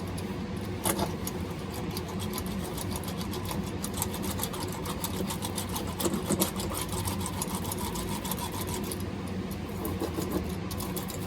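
Steady mechanical hum with rapid, irregular light clicking and crackling throughout, consistent with a ribbed fiberglass roller being worked over epoxy-wet biaxial cloth to push the resin in and the air out.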